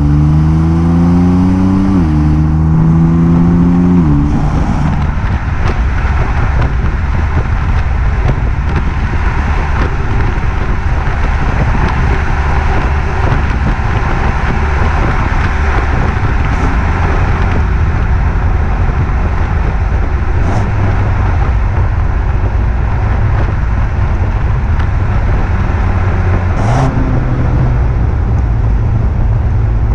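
BMW M2 Competition's twin-turbo straight-six pulling through the gears, its note climbing and dropping sharply twice at upshifts in the first four seconds, then settling into a steady low drone with road noise; near the end the engine note steps up slightly.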